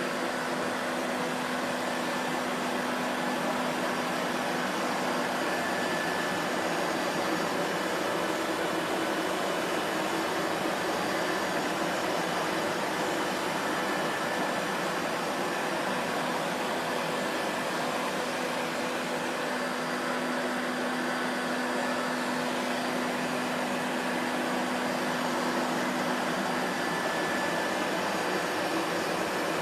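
Vacuum cleaner motor running steadily, a constant whooshing hum with a faint whine, unchanging in level.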